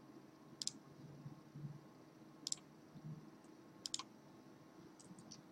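A handful of sharp computer mouse clicks, a couple of them in quick pairs, over faint room hum.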